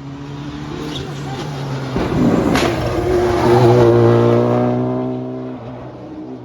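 Rally car passing at speed on a special stage: the engine comes up loud to a peak and fades as it goes by, with a sharp crack about two and a half seconds in.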